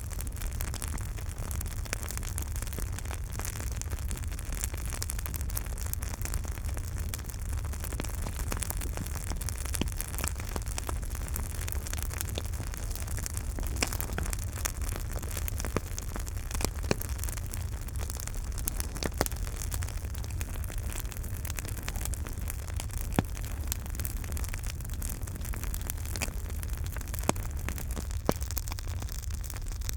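Campfire burning: a steady low rumble and hiss of the flames with frequent irregular crackles and pops of the burning wood, a few pops sharper and louder than the rest.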